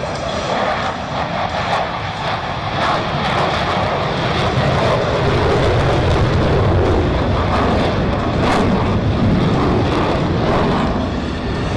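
Jet noise from the Blue Angels' F/A-18 Super Hornets flying overhead, a loud steady rush that swells to a peak about two-thirds of the way through and then eases slightly.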